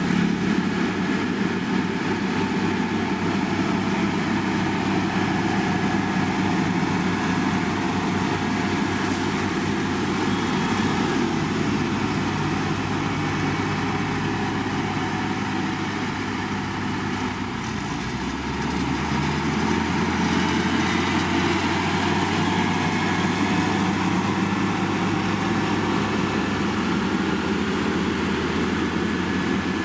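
Engine of heavy road-construction machinery running steadily. A little over halfway through, its low hum shifts in pitch after a brief dip in loudness.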